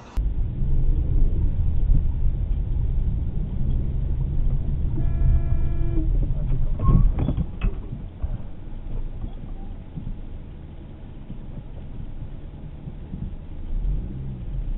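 Car driving noise, a steady low rumble, with a car horn honking for about a second about five seconds in, and a brief loud noise about two seconds later.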